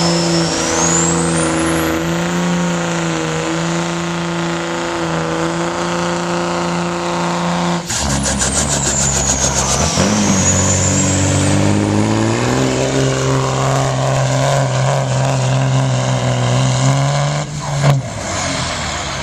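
Modified diesel pickup's engine pulling hard under load, with a turbo whistle climbing steeply in pitch in the first couple of seconds. About eight seconds in the note breaks, then a second high whistle falls and rises again while the engine climbs back up. The engine note drops away near the end.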